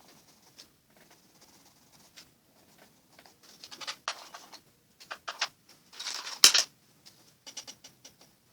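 Watercolour pencil scratching on paper in short back-and-forth strokes, in bursts, the loudest run of strokes about six seconds in.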